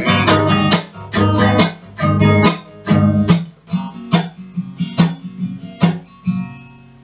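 Acoustic guitar strumming the closing chords of a song, a stroke every half second to a second, getting quieter. It ends on a final chord left ringing and fading away.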